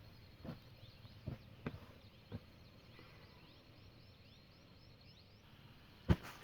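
A few sharp knocks, the loudest one near the end, over a steady outdoor background with faint, repeated high chirping.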